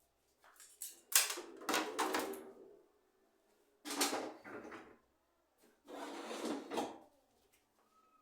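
Clatter and scraping of household objects being handled and moved, in three or four separate bursts with quiet gaps between them.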